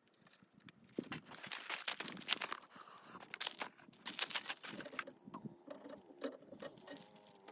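Scattered light clicks and clinks of metal truck-camper tie-down hardware, the turnbuckles and their Fastgun locks, being unlocked and handled.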